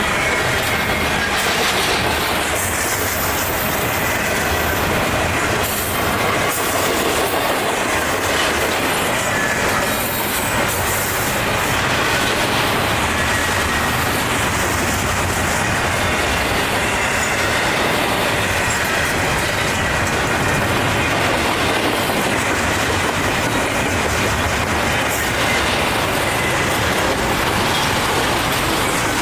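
Freight train cars rolling steadily past at close range, wheels clacking over the rail joints, with a thin, faint wheel squeal.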